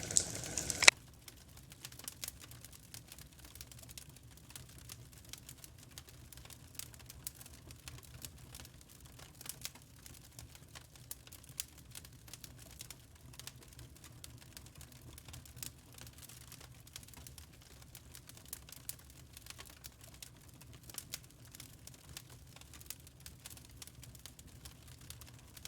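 Wood campfire crackling with scattered small pops and snaps. A sharp loud pop comes about a second in, after which the crackling turns much fainter and sparse.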